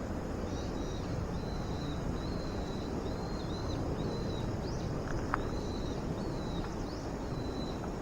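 Insects chirping outdoors in a steady run of short, high, evenly repeated notes, over a constant rushing background noise.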